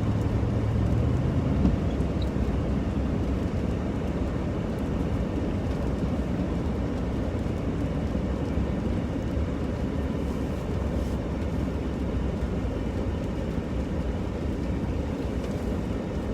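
Steady road and engine noise inside a moving truck's cabin.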